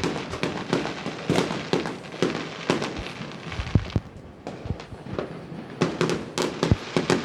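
Fireworks going off: an irregular, dense run of sharp bangs and crackles, many overlapping.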